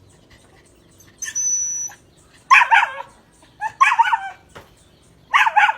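A dog barking in three separate bouts, each a short, loud, pitched bark. A thinner, drawn-out high sound comes about a second in.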